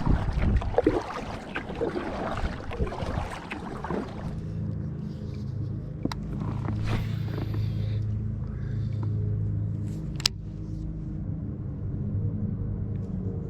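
Kayak paddling, with water splashing and wind noise on the microphone. About four seconds in, background music with a low, steady drone takes over.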